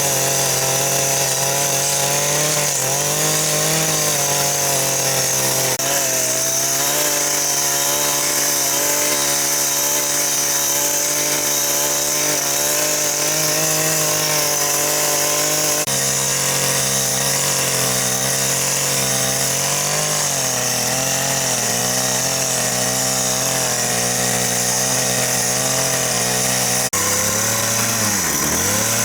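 Chainsaw running and cutting wood, its engine note wavering and dipping under load, most deeply near the end. The sound changes abruptly a few times.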